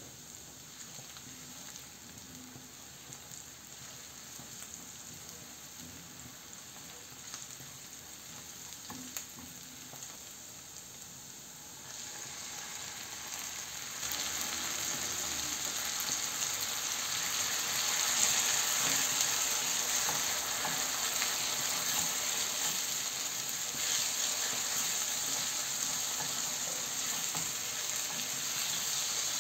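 Chopped onion, garlic and green chili sizzling in olive oil in a frying pan while a spatula stirs them. The sizzle gets louder about halfway through, when diced tomatoes go into the hot pan.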